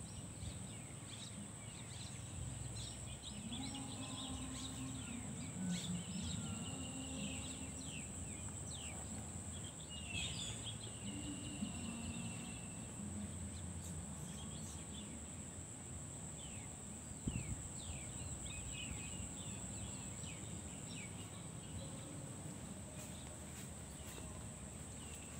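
Small birds chirping in short, quick calls scattered throughout, over a steady high-pitched drone and a low rumble of outdoor background noise.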